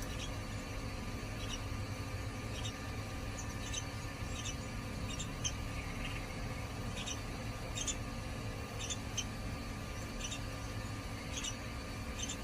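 Yellow-vented bulbuls giving short, high, squeaky chirps, repeated irregularly about once a second, over a steady low hum.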